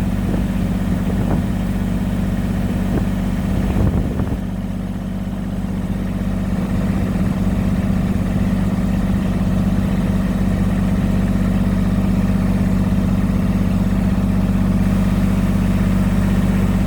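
Kubota BX23S compact tractor's three-cylinder diesel engine running steadily at idle. A few sharp knocks come in the first few seconds, and the engine note dips briefly around five seconds in.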